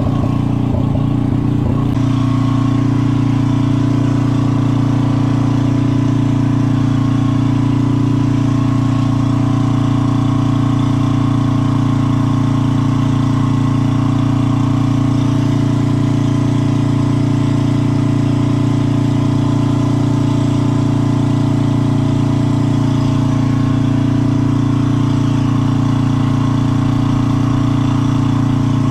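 A small engine running steadily at idle. It is uneven for the first couple of seconds, then settles into an even, constant drone.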